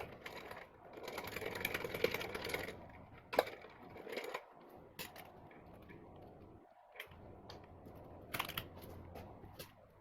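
Light clicking and rattling of small metal parts and hand tools being handled. There is a busy rattling stretch about a second in, then scattered sharp clicks.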